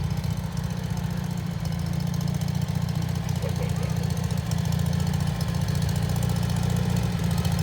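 Tractor engine running steadily with a low, rapid pulsing chug.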